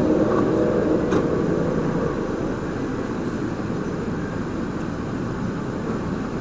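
Steady low rumble of vehicle noise, with a faint short click about a second in.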